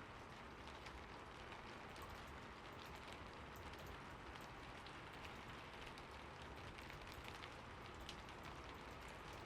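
Steady rain falling on a surface, an even hiss with many small drops pattering through it.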